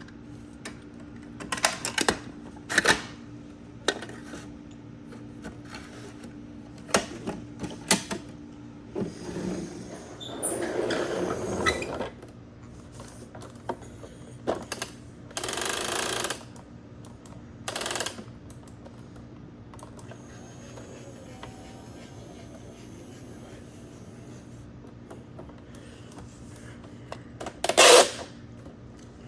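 Plastic toy garbage trucks being handled: scattered clicks and knocks over a steady low hum, two brief noisy rushes, and one loud knock near the end.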